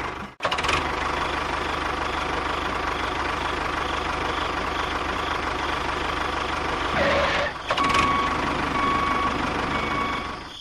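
Engine running steadily with a fine, even rhythm, cut off briefly just after the start and changing in tone about seven seconds in.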